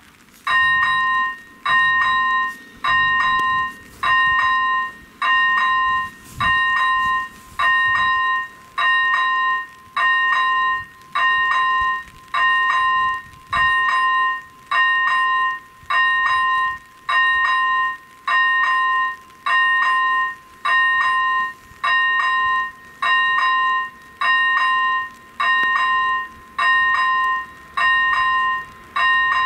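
Electronic level-crossing bell (AŽD ZV-01 e-bell) starting up about half a second in and then sounding a two-tone electronic ding about once a second, the crossing's warning that a train is approaching.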